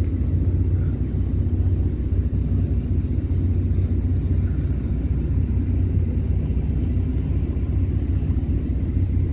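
Boat engine running with a steady low rumble as the large yacht is manoeuvred to another dock.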